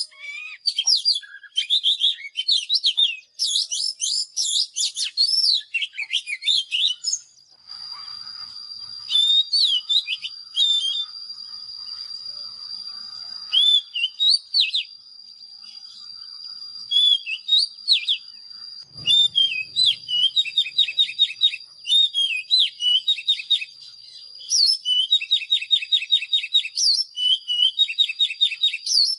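Oriental magpie-robin singing a varied string of clear whistled phrases that sweep up and down, breaking into fast runs of repeated notes near the end. A steady high-pitched tone runs underneath from about a quarter of the way in.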